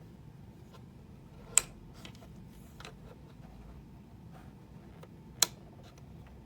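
Two sharp clicks about four seconds apart, with a few faint taps and a low steady hum underneath.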